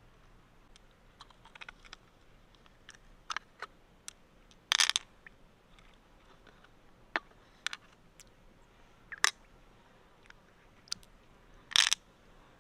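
Scattered clicks and taps of hard objects being handled close by, with two louder crunchy knocks, one about five seconds in and one near the end.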